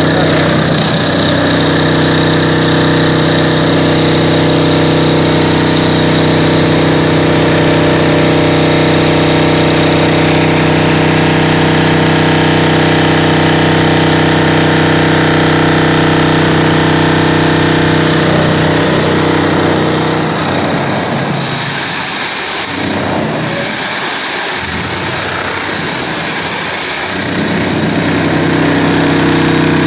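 Concrete cutting saw running at a steady pitch; about twenty seconds in its note wavers and drops a little for several seconds, then it settles back to steady running near the end.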